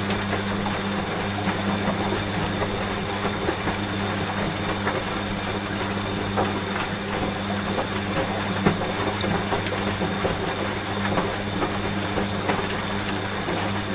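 Washing machine running with a steady low hum over steady rain patter; the hum cuts off near the end, leaving the rain.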